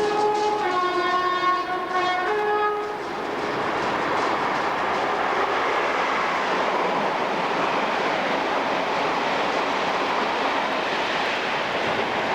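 British Rail AC electric locomotive's two-tone horn, sounding alternating high and low notes and stopping about three seconds in. Then the steady noise of the train running past.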